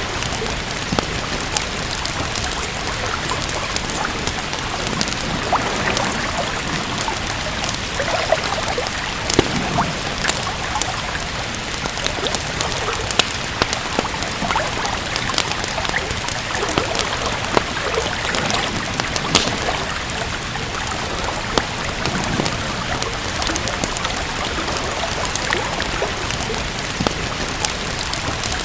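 Steady rain with a wood fire crackling, many short sharp pops scattered irregularly through it.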